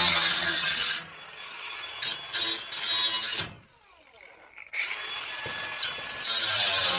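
Handheld power tool run in three bursts on the vehicle's sheet metal, winding down in pitch between bursts.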